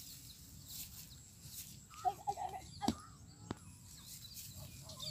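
A few short bird calls, clucking-like, about two seconds in, followed by two sharp clicks, over a faint low rumble.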